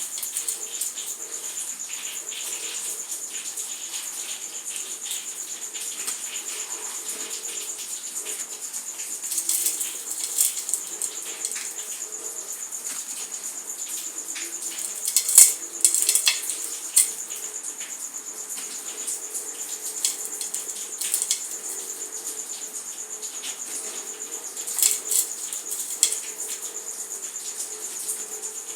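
Dry material crumbling, with light crackles coming in short clusters, the loudest about halfway through, over a steady high-pitched tone.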